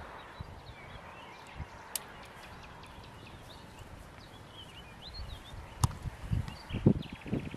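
Small birds chirping faintly over a soft steady outdoor hiss. From a bit past the middle, a run of low thumps and rustles comes close to the microphone, with a couple of sharp clicks.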